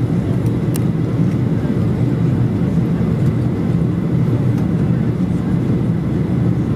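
Steady low cabin roar inside a Boeing 737-800 airliner in flight: its CFM56-7B jet engines and the airflow around the fuselage.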